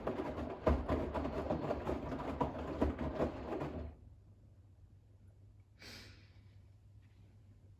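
Bosch WAX32GH1 front-loading washing machine drum tumbling a load of towels in rinse water, with sloshing and soft flopping. The drum stops about four seconds in, and a short hiss follows about two seconds later.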